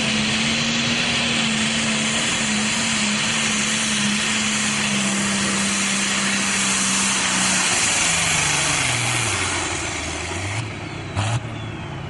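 Pro stock pulling tractor's turbocharged diesel engine running flat out under load down the track, holding a steady pitch for about eight seconds. Then its note sags and wavers and the sound falls away as the run ends, which the announcer describes as the motor getting a little rough. A short sharp knock comes near the end.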